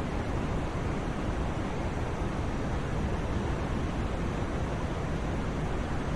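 Steady white noise for sleep: an even, unchanging rushing hiss, heavier in the low end than the top.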